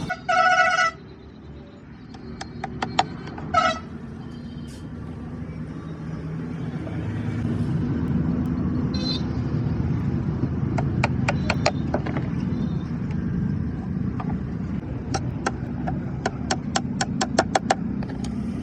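A horn honks once, then briefly again about three and a half seconds later, over a steady low rumble, with scattered sharp clicks that come in quick runs later on.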